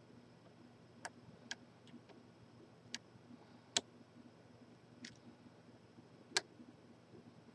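Lock picks working the pins of a pin-tumbler lock: about six sharp, faint metallic clicks at irregular intervals, the louder ones near the middle and the end. The picking is heading toward a false set.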